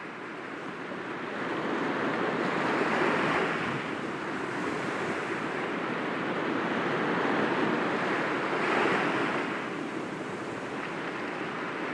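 Sea waves breaking gently against rocks: a continuous wash of surf that swells twice, a few seconds in and again near the end.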